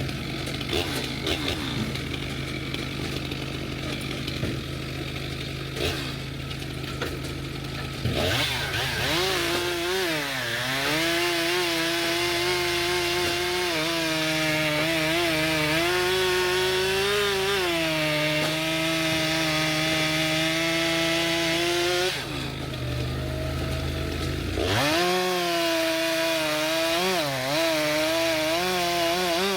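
Two-stroke Stihl chainsaw idling, then revving up about eight seconds in and bucking logs, its pitch sagging each time the chain bites into the wood. It falls back to idle for a few seconds past the twenty-second mark, then revs up and cuts again.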